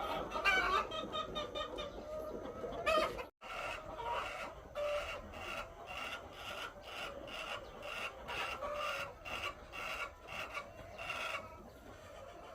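A flock of laying hens clucking. The sound cuts out briefly a little over three seconds in, then goes on as a run of even, repeated calls about two a second.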